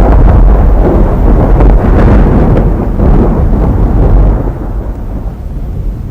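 Model JR 215 series train running on track close to the microphone, a loud rumble of wheels and motor that drops away about four seconds in as it moves off.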